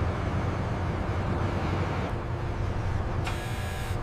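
Steady low rumble of a large vehicle engine, with a burst of hiss near the end.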